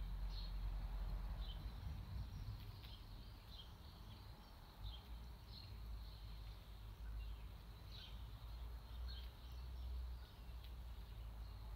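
Faint garden ambience: short, high bird chirps at scattered intervals, about one a second, over a steady low rumble.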